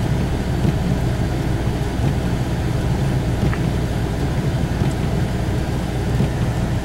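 Steady low rumble of a four-wheel-drive vehicle driving slowly on a snow-covered road, heard from inside the cab. The driver has a noise in the front end that he can't place, and wonders whether it is the tires.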